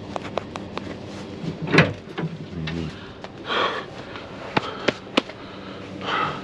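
Scattered knocks and clunks with a few short scraping rustles, from scrap items being handled and shifted around.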